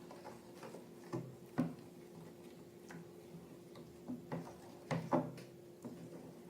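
Slime and balloon materials being handled, giving scattered soft clicks and taps: a pair about a second in and a cluster between four and five seconds in, over a faint steady hum.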